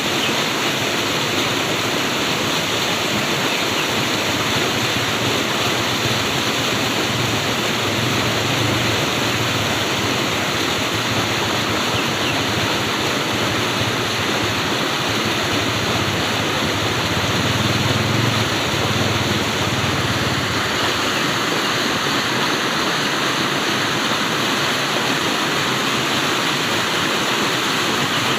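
Flowing water rushing steadily, an even unbroken wash of sound, with a faint low rumble swelling twice.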